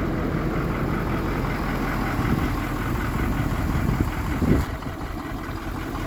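Ford F-550's 6.7-litre Power Stroke V8 diesel idling steadily, with a single thump about four and a half seconds in.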